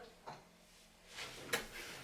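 Quiet handling sounds: a faint click just after the start, then soft rustling with a sharper click about a second and a half in.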